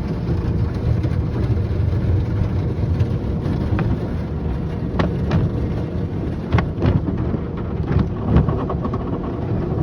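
Tunnel car wash equipment working over a truck, heard from inside the cab: a steady low rumble with water spray drumming on the body, and several sharp knocks and slaps in the second half.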